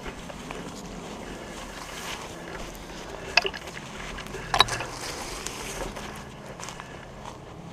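Steady rustling and wind noise on a body-worn action camera in the woods, with two sharp cracks, like twigs snapping, a little over a second apart near the middle.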